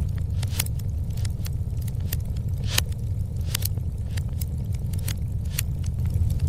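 Wood fire in a fireplace burning with a steady low rumble and irregular sharp crackles and pops, about one every half second, the loudest near the middle.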